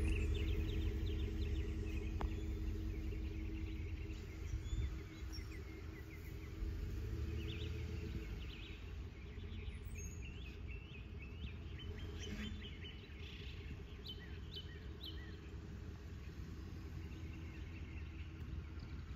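Small birds chirping and singing in many short repeated calls. Under them, a low engine rumble fades away over the first eight seconds or so.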